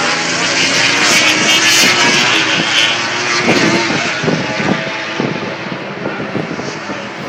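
MotoGP racing motorcycle engine running at high revs, gradually fading as the bike moves away.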